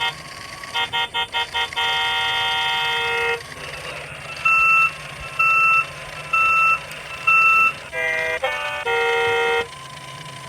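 Electronic toy-vehicle horn and warning sounds: a few quick honks then a long honk, four evenly spaced reversing-style beeps, a short stepped tone, and another long honk.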